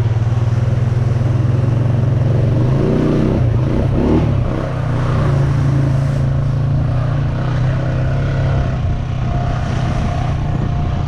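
Honda Rancher 420 ATV's single-cylinder four-stroke engine running under way, a steady low drone whose pitch shifts up and down briefly around three to four seconds in.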